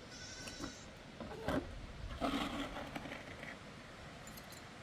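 Sheep giving a short, rough bleat about two seconds in, with a single knock just before it.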